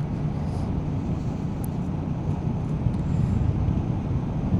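Motorcycle running at a steady cruising speed, its engine rumble mixed with road noise.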